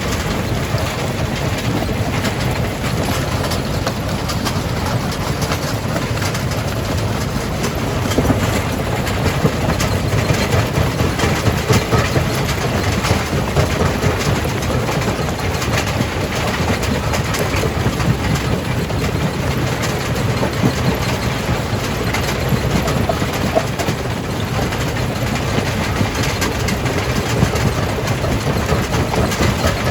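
Jaw crusher running: a steady heavy rumble with a dense, irregular clatter of rock being broken.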